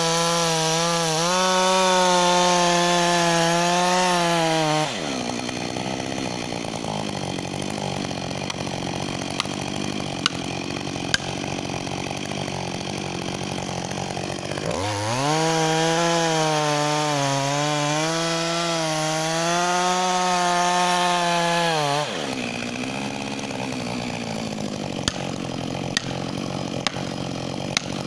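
Husqvarna 562 XP two-stroke chainsaw running at full throttle for about five seconds, dropping back to idle, then revving up again for about seven seconds before returning to idle; the full-throttle stretches are the saw cutting into the tree. A few sharp clicks sound near the end.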